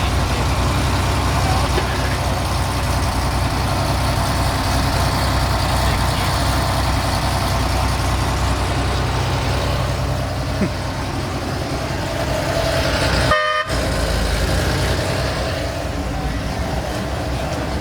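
Steady low rumble of car engines running, with a short car horn toot about two-thirds of the way in.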